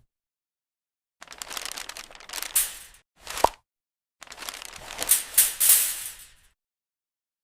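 Crinkling, crackling noise in three spells, the last the longest, with silence between.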